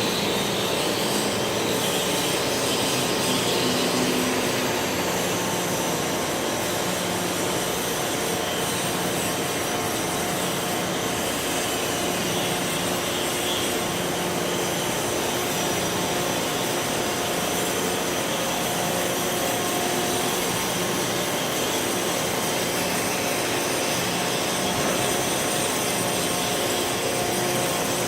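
Steady, unbroken industrial noise, with a faint low hum that comes and goes every few seconds.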